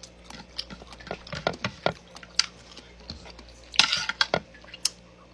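Fingers picking at a plate: a string of light clicks and taps on the dish, with a brief scrape about four seconds in.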